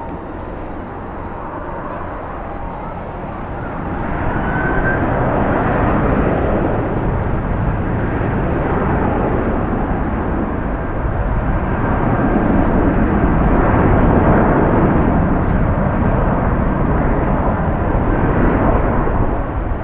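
Jet airliner's engines growing louder as it passes, loudest about two-thirds of the way through. Strong wind buffets the microphone throughout.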